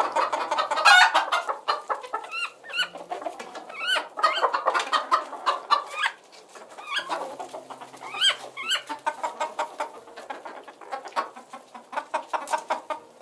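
Domestic chicken clucking over and over in short notes, with a few louder, longer calls that rise and fall in pitch, the loudest about a second in and others near 4 and 8 seconds.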